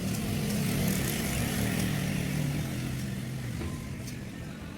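An engine running steadily, swelling a little about a second in and easing off after about three and a half seconds.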